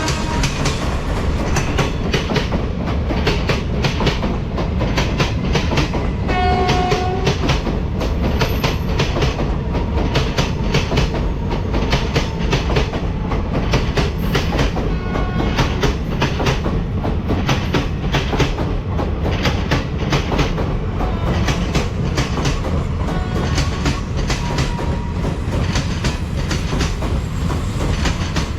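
A train running through the station, its wheels clattering rapidly and steadily over the rail joints. A short horn note sounds about six and a half seconds in.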